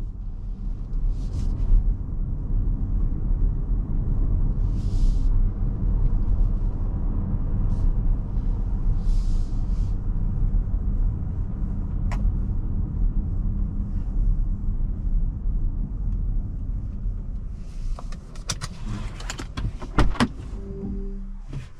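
Road and tyre noise inside the cabin of a Mercedes-Benz GLB350 on the move, a steady low rumble. Near the end the rumble fades and a series of sharp clicks and knocks sounds.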